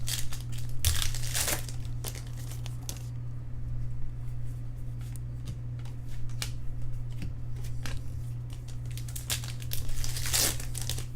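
Trading-card pack wrappers crinkling and tearing as packs are ripped open. It comes in bursts during the first three seconds and again near the end, over a steady low hum.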